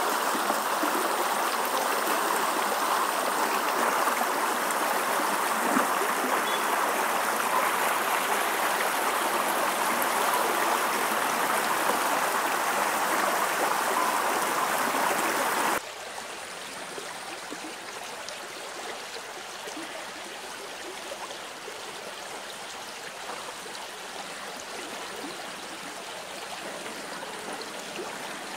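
Running stream water, a steady rushing flow; a little past halfway it cuts abruptly to a quieter, softer flow of water.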